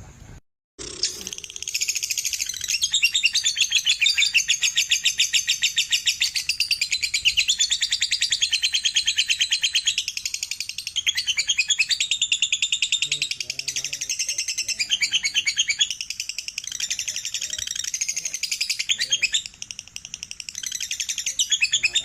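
Lovebird ngekek: a long, fast, high-pitched chattering trill of rapidly repeated notes, running almost without a break, with a brief dead cut about half a second in.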